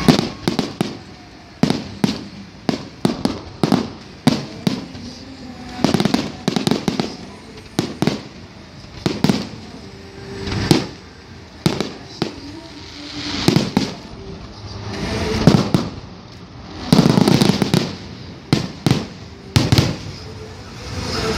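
Aerial firework shells bursting: a run of sharp bangs at irregular intervals, often several in quick succession.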